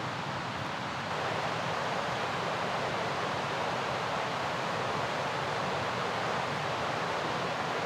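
Steady rushing of a fast mountain river, a little louder from about a second in.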